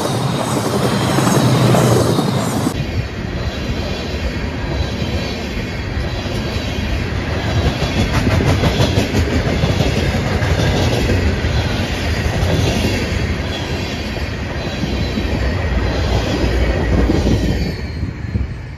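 Freight train of tank cars and open-top gondola cars rolling past: a steady rumble of steel wheels on rail with bursts of clicking as the wheels cross the rail joints. The sound falls away near the end as the last car goes by.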